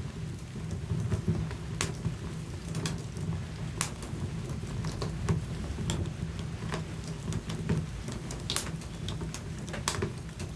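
Wood fire in a fireplace crackling: irregular sharp pops and snaps, a few a second, over a steady low rumble of the flames.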